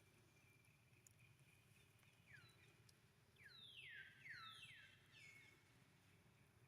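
A quick series of about five high animal calls, each sliding down in pitch, over a faint steady background.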